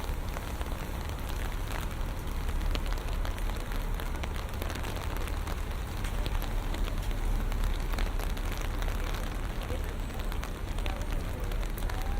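Steady rain falling on hard surfaces, with many scattered drip ticks, over a continuous low city rumble.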